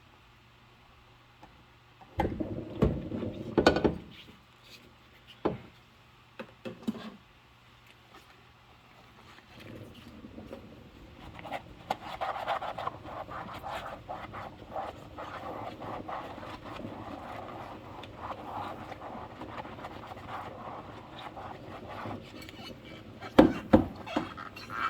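Dishes being hand-washed in rubber gloves: a few knocks and clatters of dishware, then steady scrubbing with small clicks for about ten seconds, and another loud clatter of dishes near the end.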